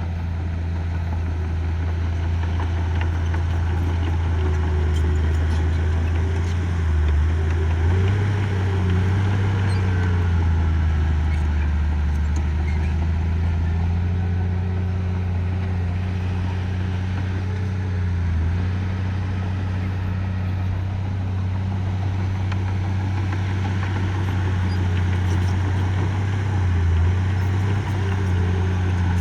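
Heavy construction machinery's diesel engine running steadily, its pitch stepping up and down a few times as the load changes.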